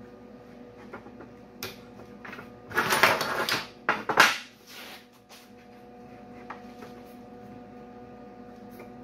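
Metalwork on a steel car grill bar: a harsh burst of noise lasting about a second, then a second short, sharp burst, with scattered light clicks over a steady electrical hum.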